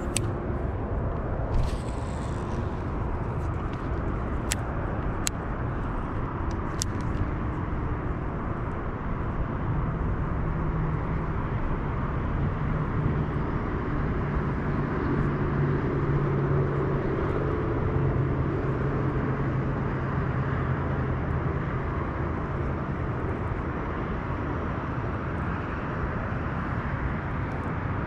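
A steady low rumble with a distant engine drone that swells through the middle and then fades away. There are a few sharp ticks several seconds in.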